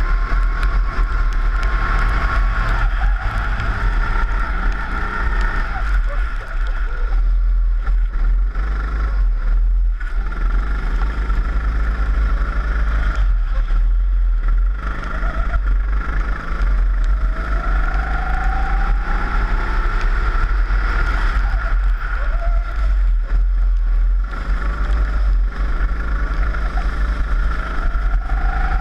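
Four-stroke rental kart engine heard onboard, its pitch rising as it accelerates out of corners and falling back as the throttle is lifted, over and over, with a heavy steady low rumble of wind on the microphone.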